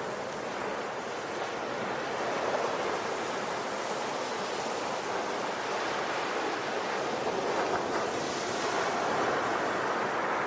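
Ocean waves breaking and washing up the shore in a continuous surf, swelling and easing gently, with a brighter hiss of foam about eight seconds in.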